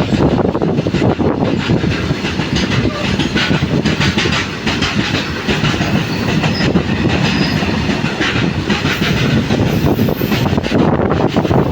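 Freight train wagons rolling past close by, wheels clattering steadily over the rail joints.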